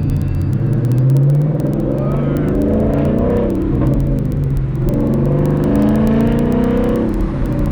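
Car engine running loud under way, its pitch rising and falling with the throttle.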